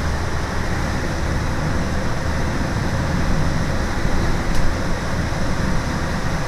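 Steady engine and road noise inside a moving school bus, with a constant low hum from the diesel engine.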